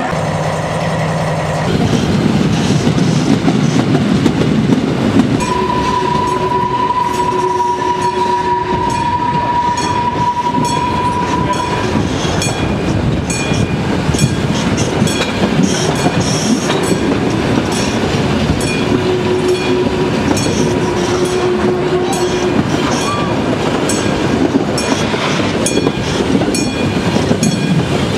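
Train running along the track, heard from on board: a steady rumble with wheel clatter. A long steady whistling tone comes in about five seconds in and lasts about six seconds, with a shorter lower tone near twenty seconds.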